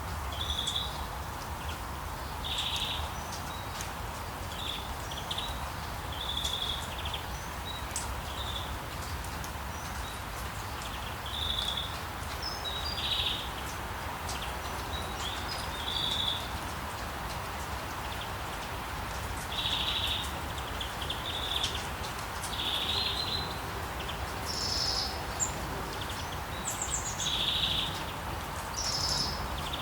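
Birds chirping in short calls every second or two, with a few higher calls near the end, over a steady hiss of rain and a low rumble of town background.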